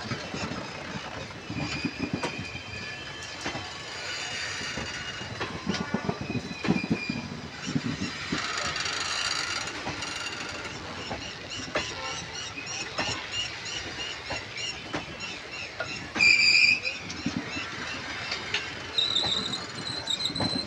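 Indian Railways passenger coaches rolling past close by, their wheels knocking over rail joints in an uneven clatter over a low rumble. High metallic squeals come and go, with one short, louder squeal about three-quarters of the way through.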